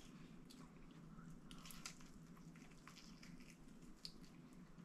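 Near silence: faint wet mouth clicks and chewing over a low steady room hum.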